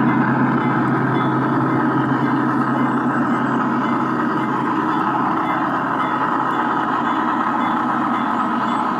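ESU LokSound sound decoder in a G-scale GE Dash-9 model locomotive playing steady diesel engine sound through the model's small speaker.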